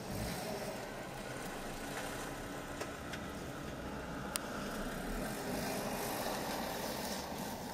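Car engine idling, heard from inside the stationary car's cabin: a steady low hum, with one sharp click about four seconds in.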